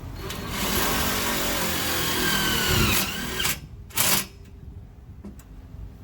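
Power drill driving a self-tapping screw into the framing: the motor runs for about two and a half seconds, its pitch falling as it loads up, then stops, followed by two short bursts of the drill near the middle.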